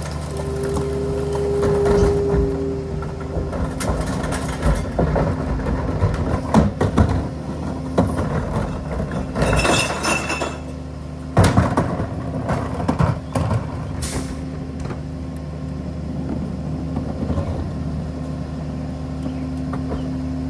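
Ford 750 rear-loader garbage truck's engine running steadily, with a steady whine for the first few seconds. Irregular clanks and bangs follow for several seconds, and there is a short hiss of air about ten seconds in and another about fourteen seconds in.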